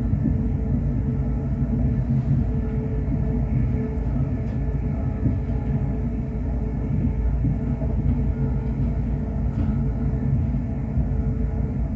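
Class 350 Desiro electric multiple unit running, heard from inside the passenger saloon: a steady low rumble of wheels on track with a faint constant hum over it.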